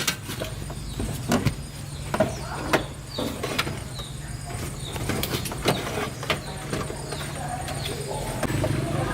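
Irregular clicks and knocks of repair work, over a steady low hum, with a few short bird chirps.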